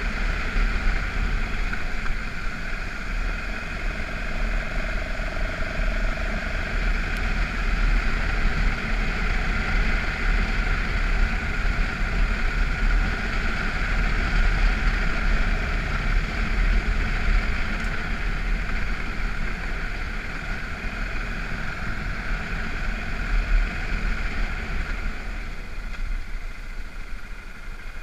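BMW F650GS motorcycle running steadily as it is ridden along a dirt road, heard through wind noise on the camera microphone.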